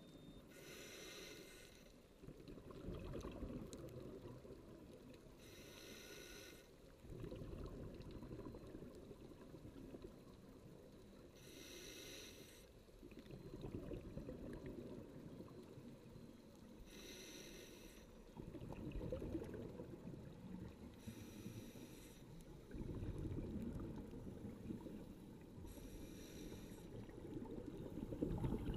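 Scuba diver breathing through a regulator underwater, about six breaths: a short hiss of inhalation every five seconds or so, each followed by a longer rumble of exhaled bubbles.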